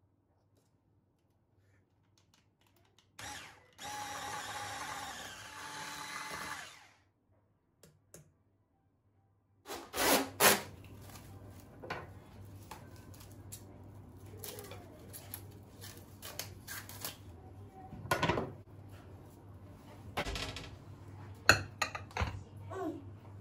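A small electric kitchen appliance motor runs steadily with a whine for about four seconds, then stops. This is followed by irregular clattering and knocking of handled kitchen items over a low hum.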